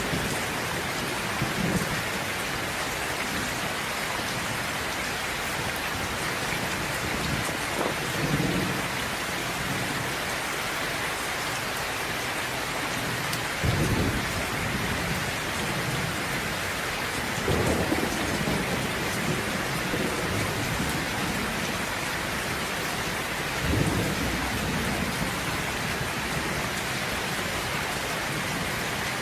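Steady heavy rain hissing, with thunder rumbling low several times, the strongest rolls about 8, 14, 18 and 24 seconds in.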